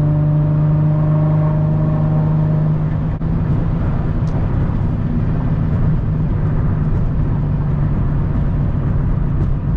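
Infiniti G35's 3.5-litre V6 running through an exhaust with the muffler and resonator deleted, heard from inside the cabin with the windows up. It holds a steady drone for the first few seconds, dips briefly about three seconds in, then carries on rougher and less even.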